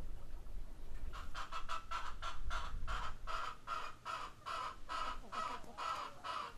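A bird calling a rapid series of short, evenly spaced notes, about three or four a second, starting about a second in. A low rumble underneath fades out around the middle.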